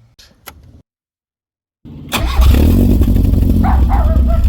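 After about a second of silence, a loud engine starts abruptly about two seconds in and keeps running steadily, with a deep hum. A few short yelping calls sound over it near the end.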